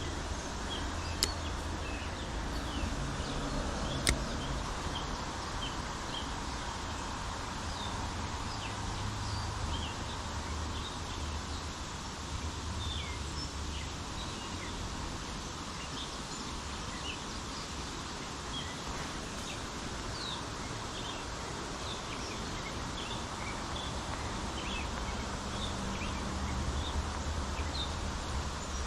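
Streamside outdoor ambience: many short bird chirps scattered over a steady hiss, with a low rumble underneath. Two sharp clicks come about 1 and 4 seconds in.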